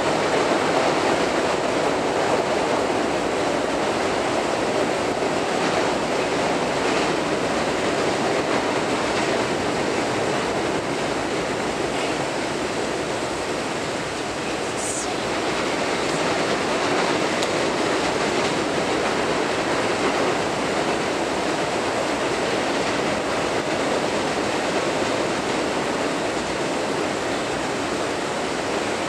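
Double-stack intermodal container cars rolling across a steel truss bridge: a steady noise of wheels on rail, with a brief high squeak about halfway through.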